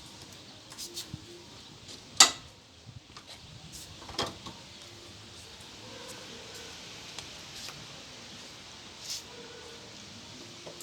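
Sharp knocks from a motorcycle moving platform being handled: a loud one about two seconds in, another two seconds later and a softer one near the end, with a few light clicks before them.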